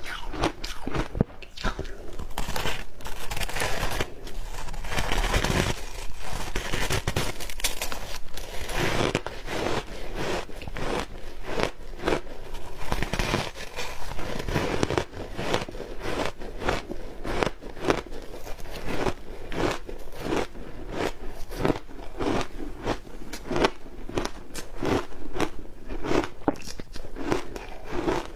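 Ice coated in matcha green tea powder being bitten and chewed: dense, irregular crunching that goes on without a break.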